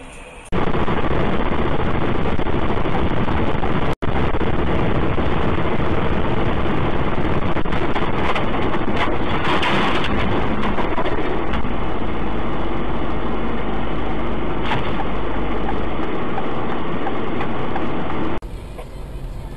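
Loud, steady road and engine noise of a moving vehicle. It cuts in abruptly about half a second in, has a momentary dropout about four seconds in, and falls to a quieter noise near the end.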